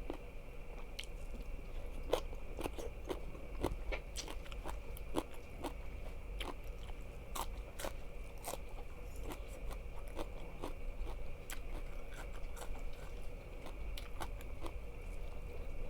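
Close-miked chewing of crunchy food, with crisp crackling crunches coming irregularly, several a second at times. A faint steady hum sits underneath.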